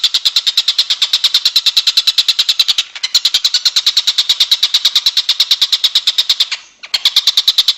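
Songbird trill on a master recording: a fast, even run of high-pitched chirps, about nine a second, broken by two short gaps.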